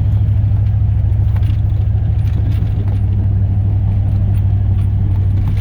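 Cab interior of a 2002 Chevrolet Silverado plow truck: its 8.1-litre V8 big-block gas engine and drivetrain drone steadily and low while driving. Light clicks and jingles run over it, from the truck rattling on a rough road.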